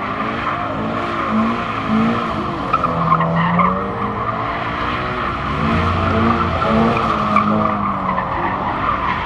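A car doing donuts: its tyres screech steadily while the engine revs high, the pitch rising and falling over and over.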